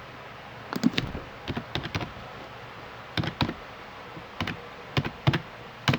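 Computer keyboard keys tapped in short irregular clusters, as an ID number is typed in.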